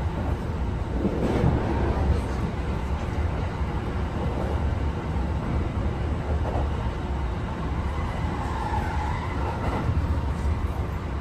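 Cabin running noise of a Kintetsu 8A series electric train under way: a steady low rumble of the wheels on the rails, with a faint wavering tone near the end.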